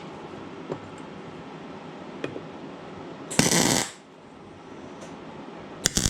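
Two short tack welds, each a harsh crackling burst of about half a second, joining the steel frame pieces of an engine stand. A couple of light metal clicks come before them.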